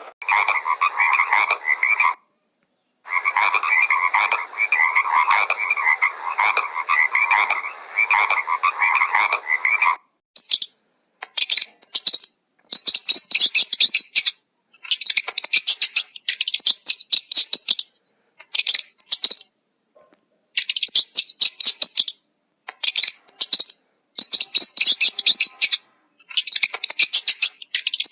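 Animal calls: about ten seconds of fast pulsed calls with a short break near the start, then high-pitched rapid trills coming in bursts of a second or two with short gaps between them.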